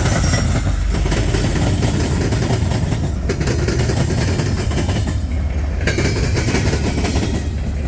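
Canadian National freight train rolling past at close range: a steady rumble of railcar wheels on the rails, with a run of clicks as the wheels cross rail joints.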